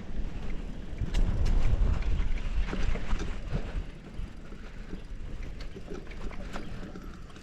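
Mountain bike riding over a rough dirt trail: a low rolling rumble with many sharp clicks and rattles from the bike over bumps, loudest from about one to three and a half seconds in.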